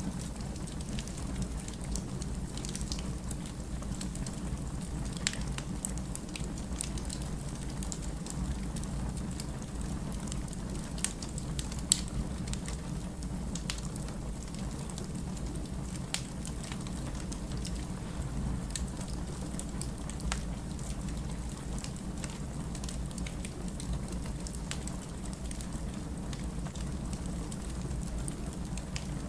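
Firewood burning in a fireplace: a steady low rumble with scattered crackles and pops, the sharpest pop about twelve seconds in.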